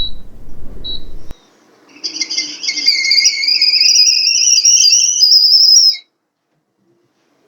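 Stovetop kettle whistling at the boil for about four seconds, the pitch rising a little and wavering, then cutting off suddenly. Two short chirps come before it.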